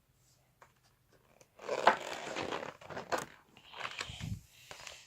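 Pages of a picture book being turned and handled: papery rustling with a few sharp clicks, loudest about two seconds in.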